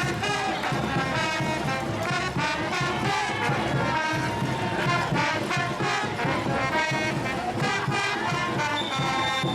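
Brass band playing traditional Bolivian parade music, with a steady drum beat under the horns.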